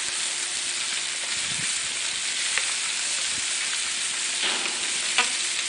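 Sliced chicken breast sizzling and searing on a hot Himalayan salt block: a steady frying hiss.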